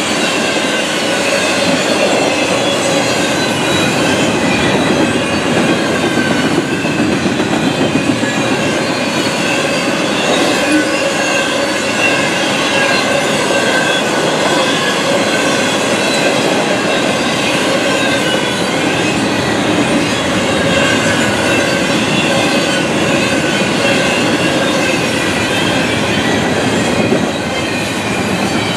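CSX double-stack intermodal freight cars rolling past close by: a steady loud rumble of steel wheels on rail, with a continuous high-pitched squeal of several wavering tones from the wheels.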